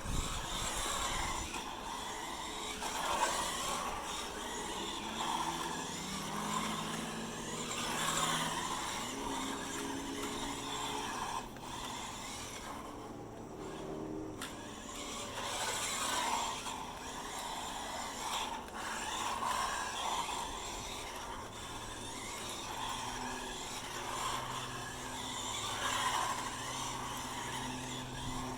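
SG 1604 radio-controlled drift car running: its small electric motor and gears whir up and down while the tyres scrub and skid across the driveway in repeated slides. The sound swells and fades with each pass, with a short lull about halfway through.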